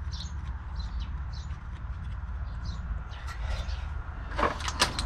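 Small birds chirping over a steady low hum, then a handful of sharp clicks and knocks near the end.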